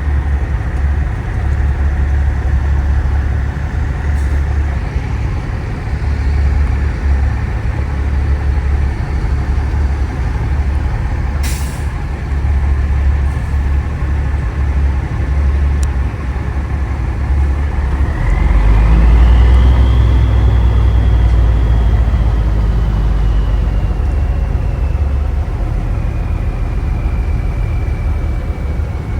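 Big rig's diesel engine and road noise droning steadily inside the truck cab. About two-thirds of the way through the engine swells louder and a whistle rises in pitch, then sinks slowly over the following seconds; there is a single sharp click near the middle.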